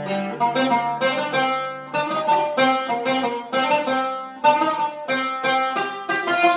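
Oud played with a pick: a quick melody of single plucked notes, several a second, each ringing briefly.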